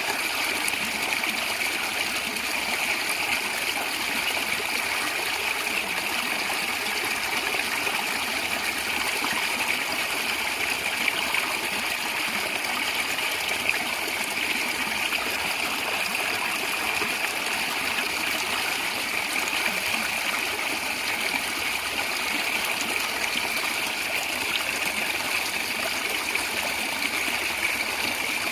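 Small stream of water flowing and gurgling steadily.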